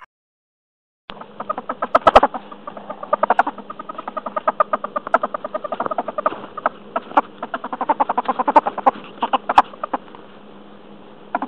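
A dense run of rapid, short animal calls, many a second, beginning about a second in.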